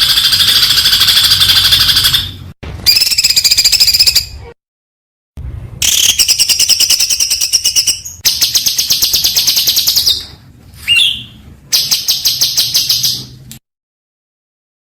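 Songbird song with very fast, high-pitched repeated notes, in a string of edited recordings: several bursts of one to three seconds each, cut off abruptly by dead silences, with one short sweeping note near the middle.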